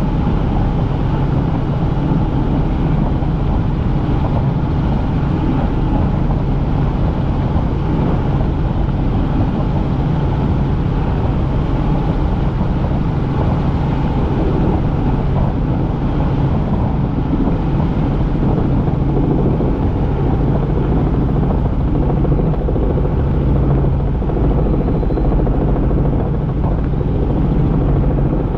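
Helicopter in flight: the engine and rotor make a loud, steady drone with a low hum that holds the same pitch throughout.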